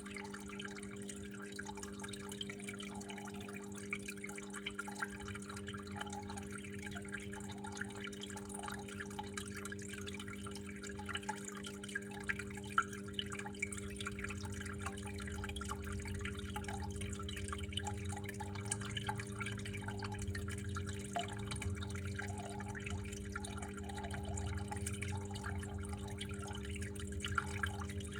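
Water trickling and dripping steadily, with small scattered drip ticks over a steady low hum; a low rumble swells up about halfway through.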